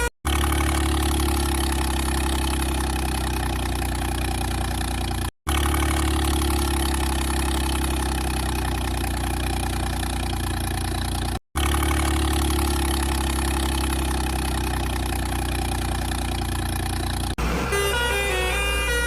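Steady vehicle-engine rumble, heavy in the low end, broken into three stretches by abrupt cuts to silence. A simple note-by-note melody takes over near the end.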